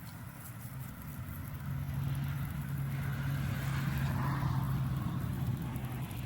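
A motor vehicle driving past: a low engine hum and tyre hiss that swell, hold for a few seconds and fade away.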